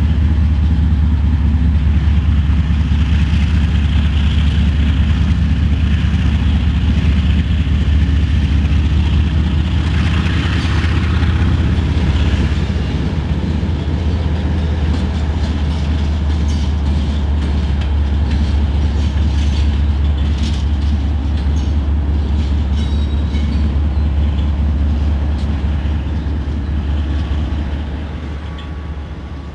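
A freight train of empty coal hoppers rolling past, with steady wheel rumble and scattered clicking clatter over the rail joints. The BNSF GE ES44AC locomotive at the rear of the train passes with its diesel engine droning low. The sound fades near the end as the train moves away.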